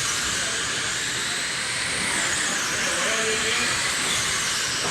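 A pack of electric RC dirt oval race cars running laps: a steady high hiss of brushless motors, with motor whines rising and falling as the cars accelerate and lift through the turns.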